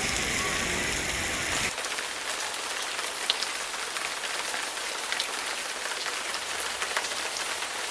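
Rain falling steadily, a dense hiss with scattered sharp drip ticks. The sound changes abruptly about two seconds in, becoming lighter in the low end.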